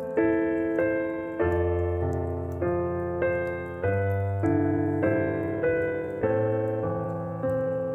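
Slow solo piano playing a praise hymn arrangement. A new chord is struck about every half second and left to ring and fade, and the bass note moves every two seconds or so.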